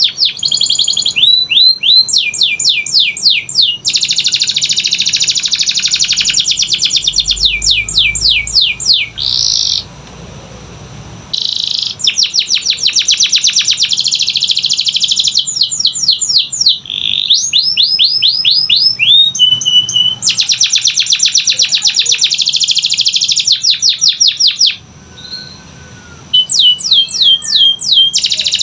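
Domestic canary singing a long song of fast trills and rolls, mixed with runs of quick falling whistled notes, broken by two brief pauses: one in the middle and one near the end.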